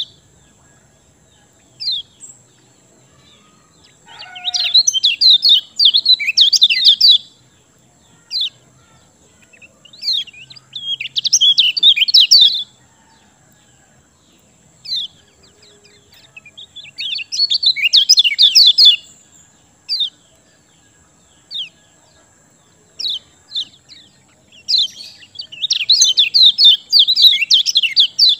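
Kecial kuning songbird singing: four bursts of rapid, high twittering song, each about two to three seconds long, with single short chirps in the pauses between them.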